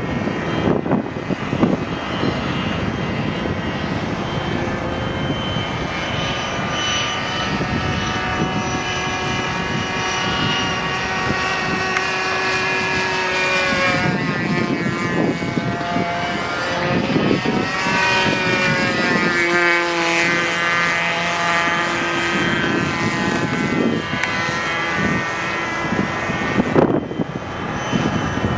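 Two-stroke OS .46 glow engine of a radio-controlled Fokker Eindecker model airplane running at high throttle in flight. Its pitch rises and falls as the plane passes by, most clearly about two-thirds of the way through, then settles lower.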